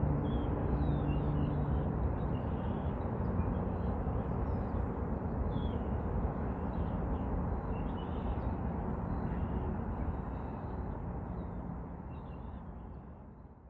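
Jet airliner's engine rumble, steady and low, dying away near the end, with small birds chirping faintly.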